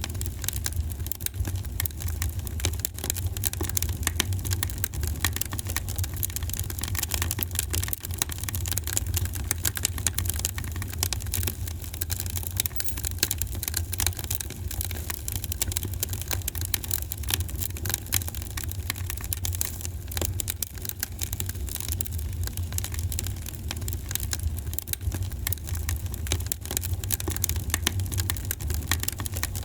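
Wood fire in a fireplace, crackling with many small rapid pops and snaps over a steady low rumble of the flames.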